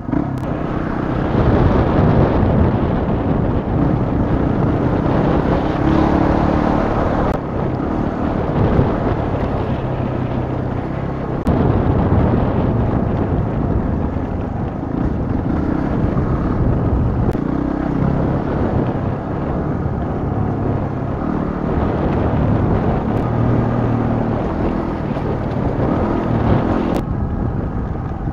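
Yamaha WR250R's 250 cc single-cylinder four-stroke engine running under load at changing revs as the bike rides a gravel track, with wind noise on the microphone. A few sharp clicks are scattered through it.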